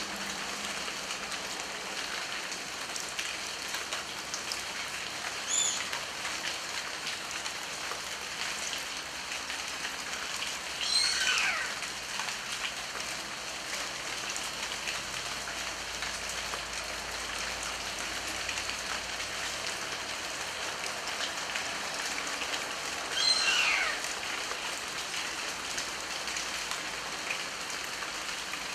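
Steady rain falling. A bird calls over it: a short high note about six seconds in, then two louder calls, each sliding downward in pitch over about a second, near the middle and again about twenty-three seconds in.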